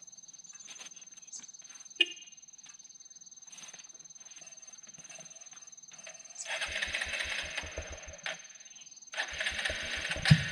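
Hero Xpulse 200 motorcycle's single-cylinder engine cranked on its electric starter twice, each time for a little over a second, with an even chugging of about six compression strokes a second. A sharp click about two seconds in.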